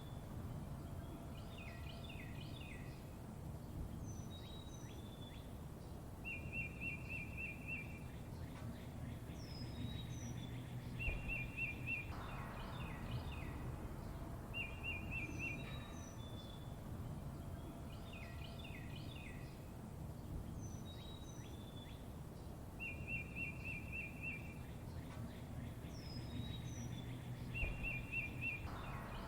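Songbirds chirping: a rapid trill about a second long comes back every few seconds, with high, quick downward-slurred chirps in between, over a steady low background rumble.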